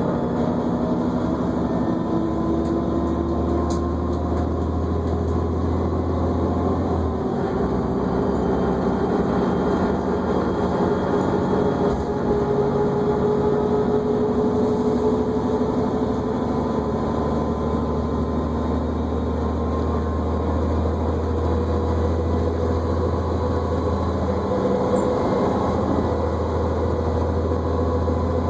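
New Flyer D40LFR diesel transit bus under way, heard from inside the cabin: the engine hums low under a drivetrain whine that slides slowly up and down in pitch as the bus gathers and sheds speed. The low hum drops away about seven seconds in and comes back about halfway through.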